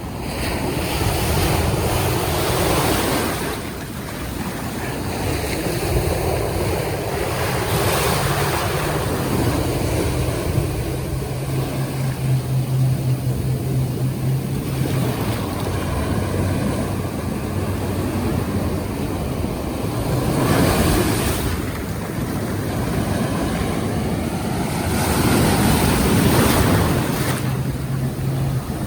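Surf breaking and washing in repeated surges, with wind buffeting the microphone. A boat engine hums steadily underneath, strongest around the middle and again near the end.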